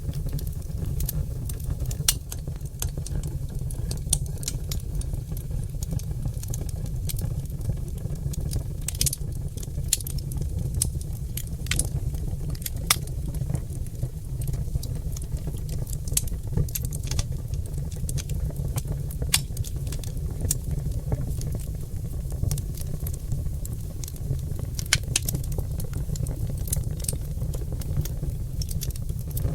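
Wood fire of oak logs crackling, with sharp pops and snaps at irregular moments over a steady low rumble of the burning.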